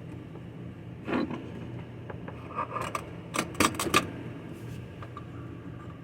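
Metal hand tools clicking and clinking against a dishwasher's metal parts: a knock about a second in, then a quick cluster of sharp clicks between about two and a half and four seconds. A steady low hum runs underneath.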